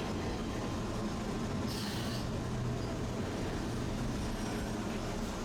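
Tosaden tram running on its line, a steady low hum and rail noise, with a brief hiss about two seconds in.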